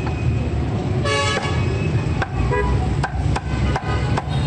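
Steady road-traffic rumble with a short car-horn toot about a second in, followed by several sharp knocks.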